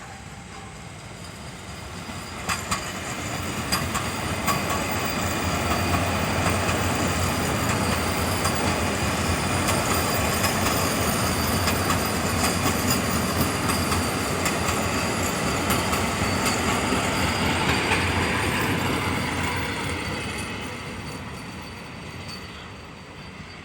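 Vande Bharat Express electric train passing, its wheels clattering over the rail joints with sharp clicks. The sound builds over the first few seconds, holds loud for about fifteen seconds, then fades toward the end.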